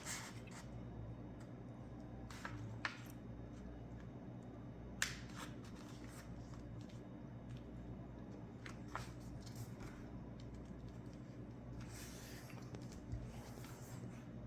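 A sheet of paper being folded and creased by hand: faint scattered rustles and short crisp crackles, with a longer rustle near the end.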